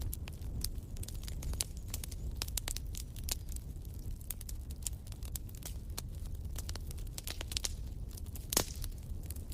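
Fire in a fireplace crackling: a steady low rumble of flame with many sharp snaps and pops, one louder pop about eight and a half seconds in.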